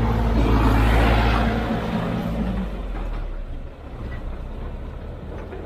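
Heavy diesel engine of construction machinery running loudly with a low, steady pitch, then dropping away about three seconds in, leaving a quieter rumble.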